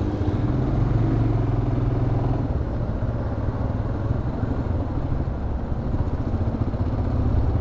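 Motorcycle engine running steadily on the move, its even hum under a constant rush of road noise.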